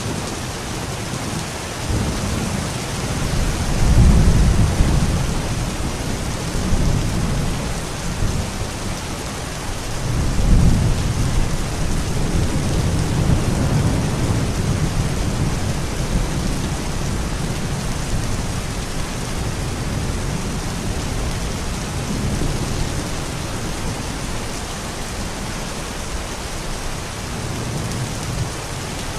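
Steady rain, with low rolling rumbles of thunder: one swelling about four seconds in and a longer one from about ten seconds in.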